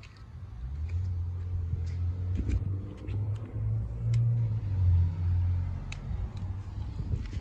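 A motor vehicle's low engine rumble that builds about a second in, swells around four to five seconds in, then eases off, with a few faint clicks over it.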